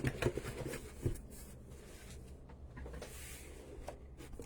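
Craft supplies and packaging being handled: a few soft taps and rustles in the first second, then only a faint low room hum.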